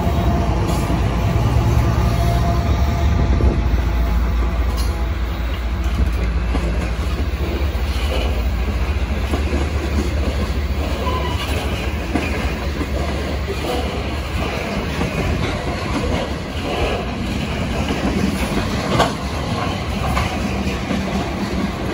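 Freight train passing close by: the trailing BNSF diesel locomotive's engine runs with a deep rumble for the first few seconds and fades as it moves off, then a string of ethanol tank cars rolls past with a steady rumble and wheels clicking over the rail joints. A sharp clank sounds near the end.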